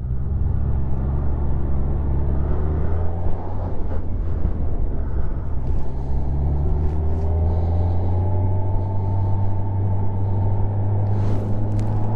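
Kawasaki motorcycle engine running under way, heard from the riding bike with a steady rush of wind. The engine note shifts a couple of times and climbs gently over the last few seconds.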